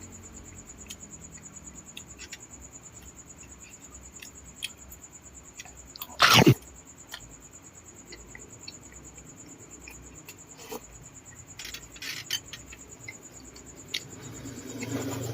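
Person eating balut: scattered small mouth clicks and chewing sounds, with one loud half-second breathy burst about six seconds in. A faint steady high whine sits underneath.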